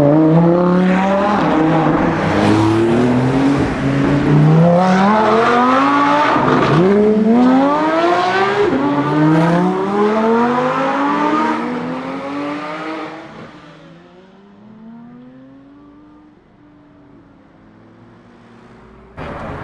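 Lamborghini Huracan STO's naturally aspirated V10 accelerating hard, its pitch rising through gear after gear with a quick drop at each upshift. About thirteen seconds in it fades as the car pulls away, and the upshifts are still heard faintly in the distance.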